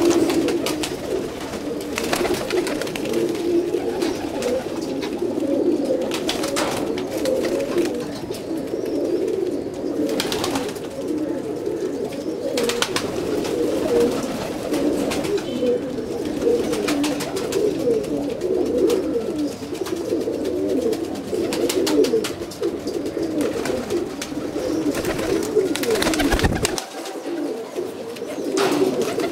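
A group of domestic pigeons cooing together, many overlapping coos in a continuous low warble, with a few brief sharp clicks or flaps now and then.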